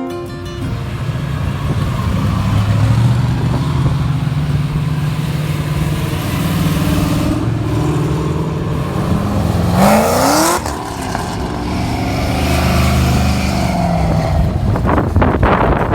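Engines of street-driven drag race cars rumbling loud and low at slow speed, with one engine revving up in a quick rising sweep that cuts off about ten seconds in.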